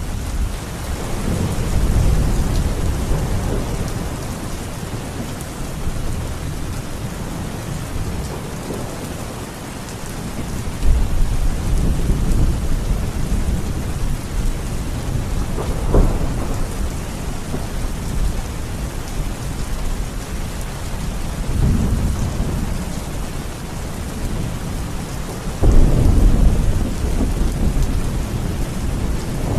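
Steady heavy rain with repeated rolls of thunder: several low rumbles, one sharper crack about halfway through, and the loudest roll near the end.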